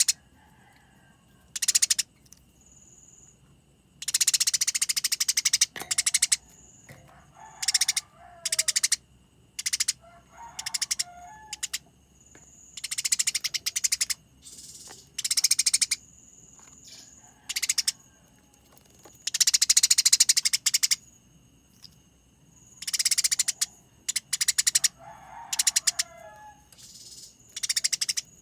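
Eurasian tree sparrows fighting: rapid, harsh, rattling chatter that comes in repeated bursts of about half a second to a second and a half, with short pauses between them.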